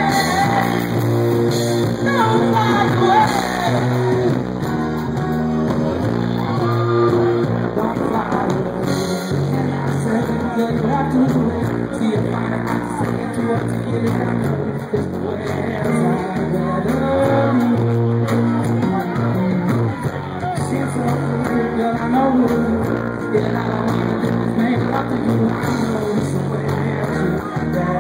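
Live band playing a rock song, with a man singing over it.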